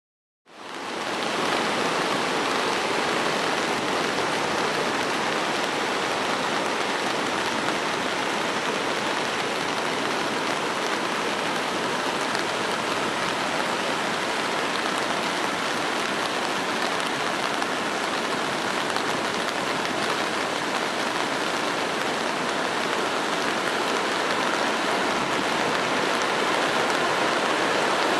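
Steady rushing of a large river waterfall swollen by heavy rain, with rain falling on an umbrella close by. The sound starts abruptly about half a second in and then holds even.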